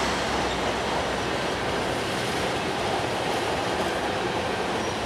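Passenger coaches of the Argo Parahyangan express train rolling past, with a steady rumble of steel wheels on rail.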